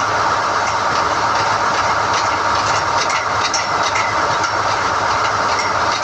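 SDH-1600 core drilling rig running steadily while NQ rods are hoisted out of the hole: an even, loud machine noise over a low hum, with faint metallic clicks now and then.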